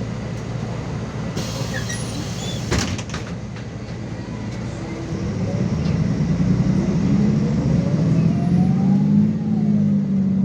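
Diesel engine of a MAZ 216.066 articulated city bus heard from inside the cabin, with a brief hiss and a sharp knock about three seconds in. From about halfway through, the engine note rises and grows louder as the bus accelerates.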